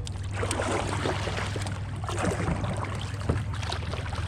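Kayak paddle strokes splashing in the water, in irregular bursts of swishing and dripping.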